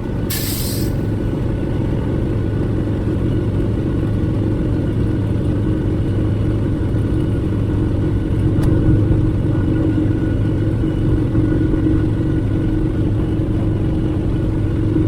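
The An-2's nine-cylinder radial piston engine running steadily at high power, a dense continuous rumble, with a short hiss right at the start.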